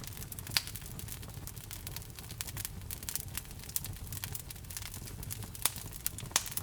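Wood fire crackling in a fireplace: a steady low rumble of flames under dense small crackles, with a few sharper pops, one about half a second in and two near the end.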